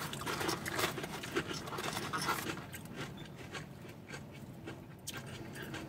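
Close-up eating sounds: chewing and crunching of battered, fried onion rings, with the rustle of a paper food bag. Crackly clicks are densest for the first couple of seconds, then thin out.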